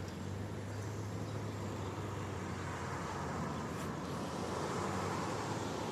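Steady rain noise under a vehicle's low engine hum, with road noise swelling about four to five seconds in.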